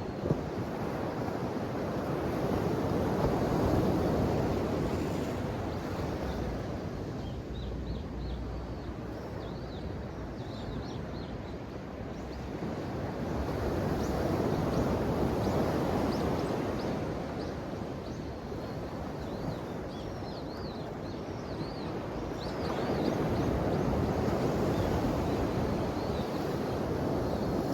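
Ocean waves breaking and washing on the shore, the surf swelling and falling back three times about ten seconds apart. Faint high chirps come in and out above the surf from about a third of the way in.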